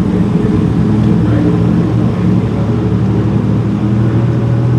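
Classic British sports car engine running steadily at low speed, heard from the driver's seat as the car creeps forward.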